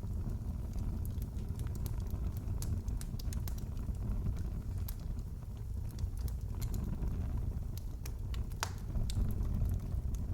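Wood fire crackling in a fireplace: scattered sharp snaps and pops over a steady low rumble, with one louder pop near the end.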